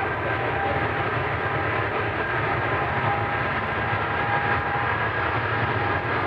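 Boeing 777 twin jet engines at takeoff power: a loud, steady roar with high whining fan tones.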